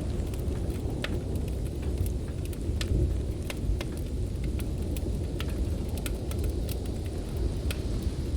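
Deep, steady rumble of blizzard wind with a wood fire crackling over it in irregular sharp pops and snaps.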